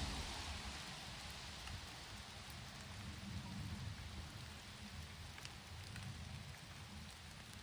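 Steady night rain with a few faint ticks of single drops. A low rumble fades away over the first second or two.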